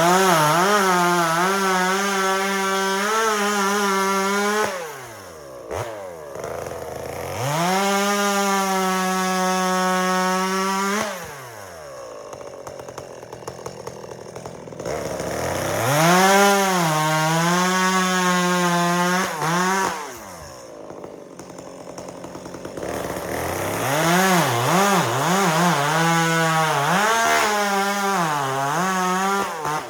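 Chainsaw bucking firewood, run at full throttle through four long cuts. Its pitch sags and wavers as the chain bites into the wood. Between cuts it drops back to a quieter idle.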